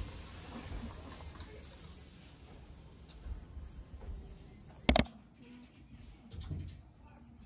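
Outdoor ambience with small birds chirping in short, quick falling calls, then a sharp double click about five seconds in.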